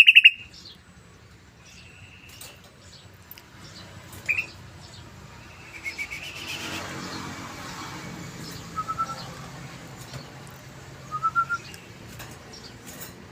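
Yellow-vented bulbul (trucukan) giving scattered short chirps and calls: a loud call right at the start, another about four seconds in, a longer run of notes around six to seven seconds, and short quick note groups near nine and eleven seconds.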